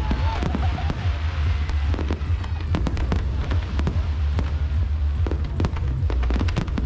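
Aerial fireworks display bursting: many sharp bangs and crackles in quick succession throughout, over a constant deep rumble.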